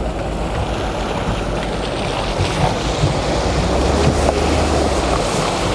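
Lada Niva Travel's four-cylinder engine running at low revs under a loud, steady rushing noise that builds up and cuts off near the end.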